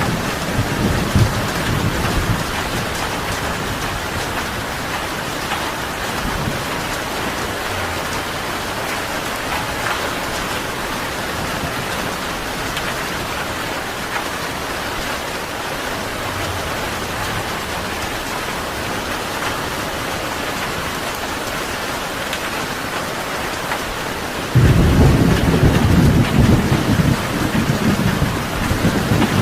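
Steady heavy rain with thunder: a low rumble dying away in the first couple of seconds, then a sudden loud thunderclap about 25 seconds in that rolls on.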